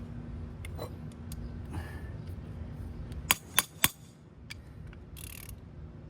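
Socket ratchet wrench on a lug nut: light handling clicks, then three sharp ratchet clicks in quick succession about three and a half seconds in, as the handle is swung back in the freewheeling direction.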